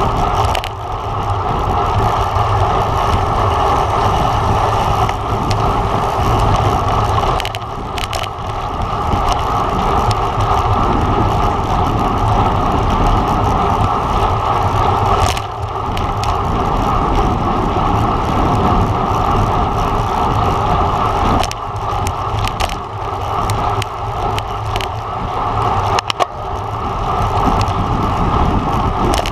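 Steady rush of wind over the microphone of a camera on a road bike at racing speed, with tyre and road noise underneath and a few sharp clicks along the way.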